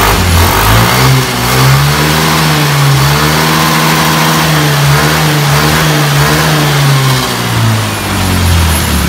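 A Yamaha Mio i125 scooter's 125 cc single-cylinder four-stroke engine running just after a top overhaul with a replaced valve. It is revved up from idle about a second in, held at a steady higher speed, then eased back to idle near the end.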